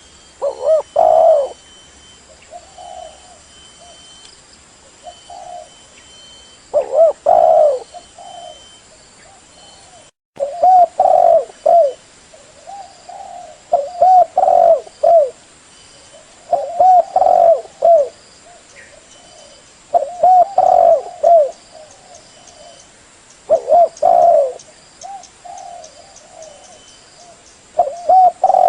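Spotted dove (tekukur) cooing: a loud coo phrase about every three seconds, with softer coos in between, a lure call for attracting doves.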